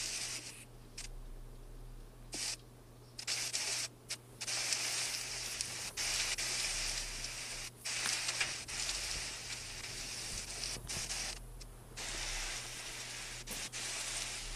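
Heavy rain pouring down in a steady hiss, cutting out briefly several times.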